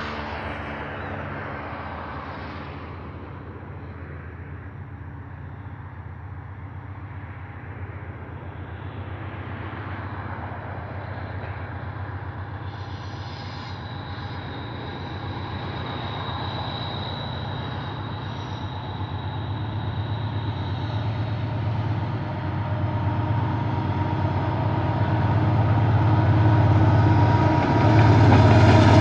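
Diesel-electric freight locomotives running with a steady low engine drone, growing steadily louder as the train draws near.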